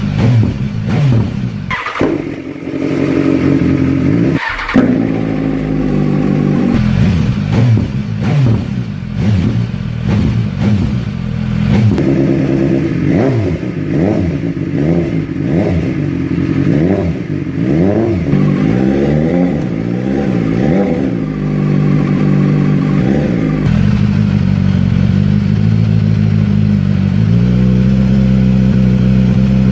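BMW S1000R's inline-four engine, fitted with a street-legal aftermarket exhaust, idling and blipped again and again with quick rises and falls in revs, many of them in a row midway through. It settles into a steady idle for the last several seconds.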